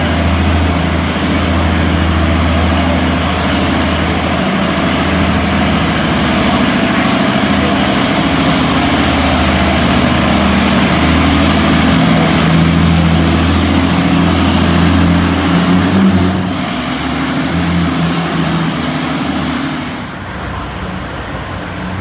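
Antique tractor engine working hard under load with a steady, heavy drone as it pulls the sled. It eases off about three-quarters of the way through and drops lower again near the end as the pull winds down.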